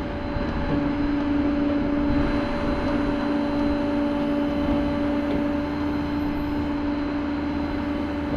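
Vehicle engine idling: a steady drone with a constant low hum.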